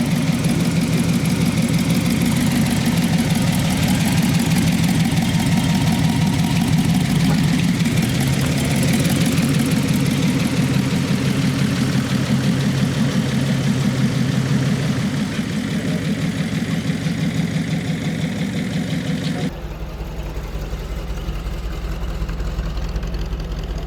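Car engine idling close by with a steady, pulsing low exhaust note. About three-quarters of the way through, it cuts abruptly to a quieter, deeper engine sound.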